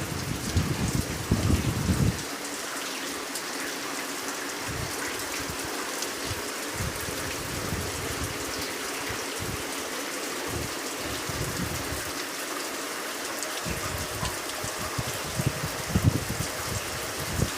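Steady rain falling, an even hiss throughout. Low rumbling on the microphone in the first two seconds and again near the end is the loudest part.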